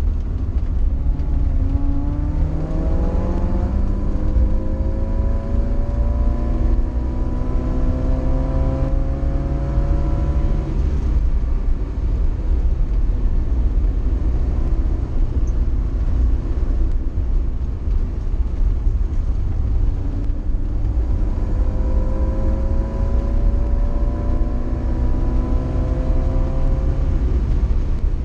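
Fiat 124 coupe heard from inside the cabin under heavy low road and engine rumble. The engine note climbs as the car accelerates hard from about two seconds in to about eleven, holds steadier while cruising, then climbs again near the end.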